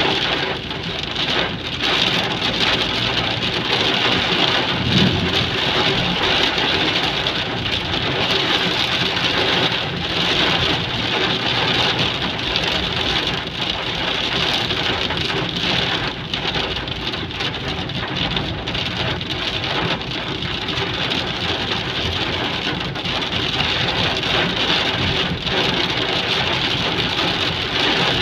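Heavy rain falling steadily, a constant hiss of downpour with many drops pattering on surfaces.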